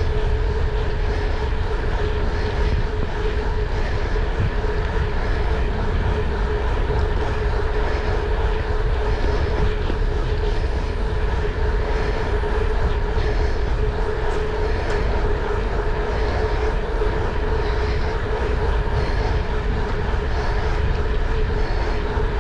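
Steady engine drone with a constant mid-pitched hum over a deep rumble, unchanging throughout.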